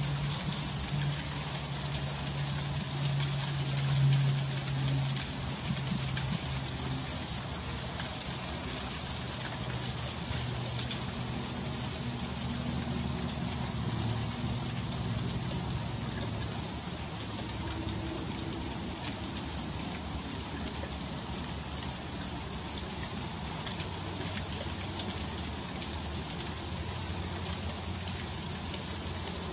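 Freezing rain falling steadily: an even hiss of fine ticking drops on icy surfaces. A low hum that shifts slowly in pitch runs underneath, swelling briefly a few seconds in.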